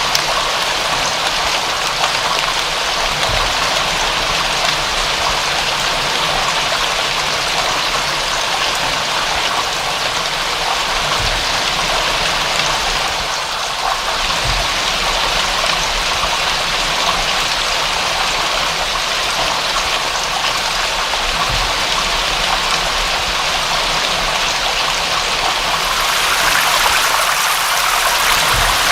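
Steady rain falling, an even watery hiss with a few faint low thumps. About 26 seconds in, the hiss turns brighter and a little louder.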